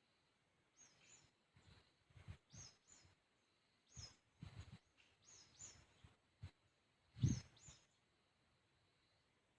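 A bird calling repeatedly in a faint natural ambience: pairs of short, high, falling notes come about every second and a half. Low thumps come with the calls, the loudest about seven seconds in.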